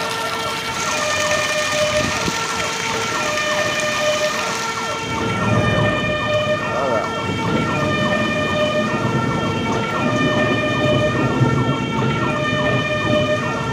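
Emergency vehicle's two-tone siren, alternating steadily between a higher and a lower pitch roughly every second or so, over a continuous noisy background.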